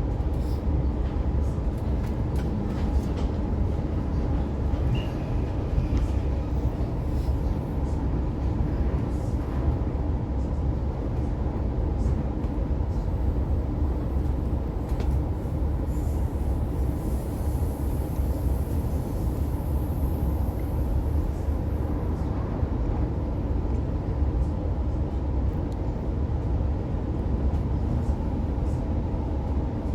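Interior running noise of an Oscar H set electric intercity train carriage in motion: a steady low rumble of wheels on track with a constant hum, and faint scattered clicks and rattles.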